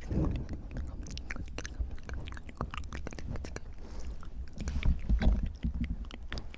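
Close-miked wet mouth sounds: quick tongue and lip clicks throughout, with breath pushing on the microphone as low rumbles near the start and about five seconds in.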